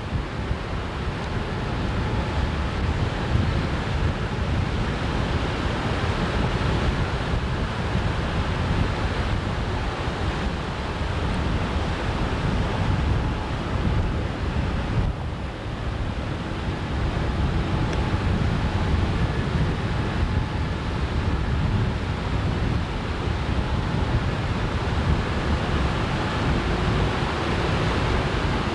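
Wind buffeting the microphone over rushing water from an inflatable boat under way, with a faint steady tone underneath and a brief lull about midway.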